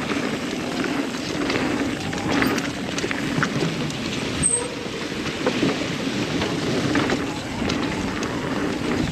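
Mountain bike rolling fast down a dirt trail: tyres running over the ground with steady rushing noise and frequent small rattles and clicks from the bike, with wind on the microphone.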